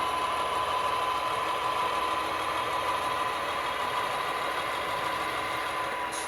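HO scale Athearn SW1500 switcher models running, giving off a steady diesel engine drone with a constant high whine.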